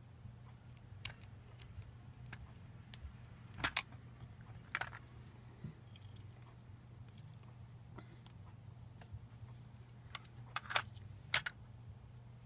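Scattered small clicks and taps of lightsaber hilt parts being handled during disassembly, a few louder clicks in two clusters near the middle and near the end, over a low steady hum.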